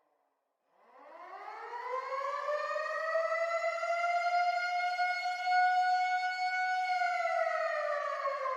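Warning siren wailing in one long cycle. It starts about a second in, climbs in pitch over a couple of seconds, holds steady, then begins to fall near the end.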